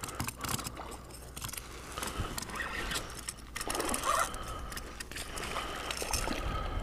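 Fishing rod, reel and tackle handled while a fish is fought from a kayak: irregular small clicks and rattles over a steady low wind rumble on the microphone.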